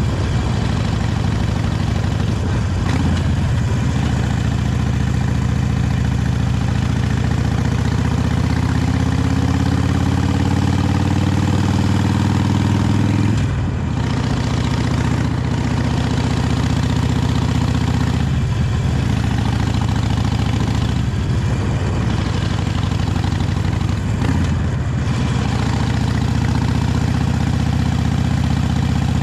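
Harley-Davidson Sportster 883 Iron's air-cooled V-twin on its stock exhaust, running under way. The engine pitch climbs steadily for several seconds, then drops sharply about halfway through, as with a gear change. It dips briefly three more times later on.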